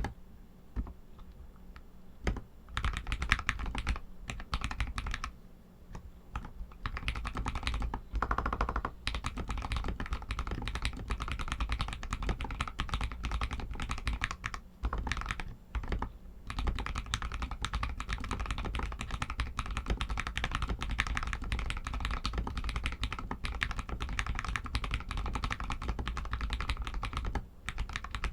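Royal Kludge RK61 mechanical keyboard with Outemu red linear switches being typed on in fast, continuous keystrokes. The typing breaks off briefly a few times, in the first few seconds and about halfway through.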